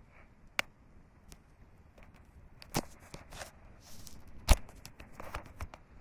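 Campfire wood crackling: scattered sharp pops and cracks at irregular intervals, the loudest about four and a half seconds in, over a faint steady hiss.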